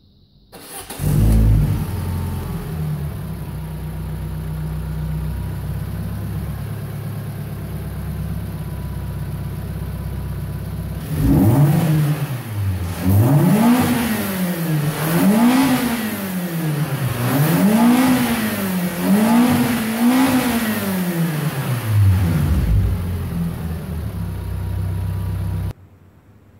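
Peugeot 206 petrol engine heard through its aftermarket Tornado cold air intake: it comes in with a brief flare about a second in, idles steadily, then is revved up and down about five times before settling back to idle. The sound cuts off suddenly near the end.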